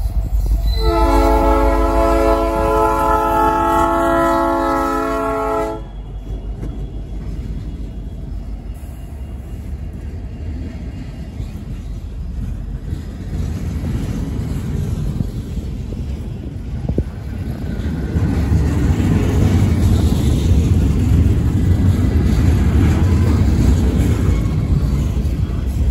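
Diesel freight locomotive's air horn sounding one long chord of several tones for about five seconds, stopping abruptly. Then the train rolls through the crossing as a low, steady rumble of wheels and cars that grows louder about two-thirds of the way through.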